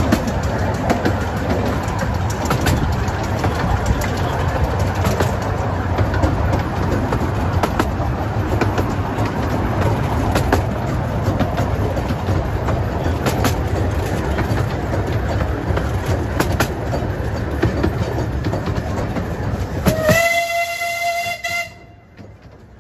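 Miniature railway train running along the track: a steady rumble of wheels on rail with irregular clicks over the rail joints. Near the end the locomotive sounds one long whistle blast, given for a whistle board, and the running noise then drops away.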